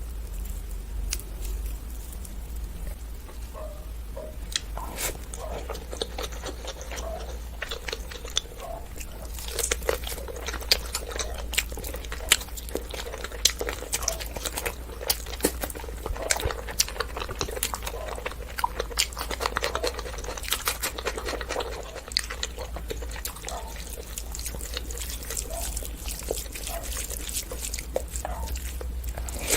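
Close-up eating sounds from a person chewing rice pulao and mutton curry: wet chewing and smacking with many sharp mouth clicks, busiest in the middle.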